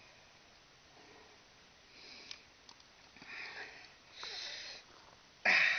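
A person taking four short sniffs or noisy breaths through the nose; the last, about five and a half seconds in, is the loudest.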